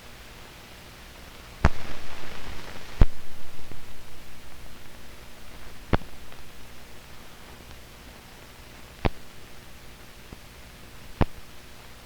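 Steady hiss of an old film soundtrack, broken by five sharp pops spaced a few seconds apart. The first two are the loudest, and after them a fluttering rattle fades over a couple of seconds.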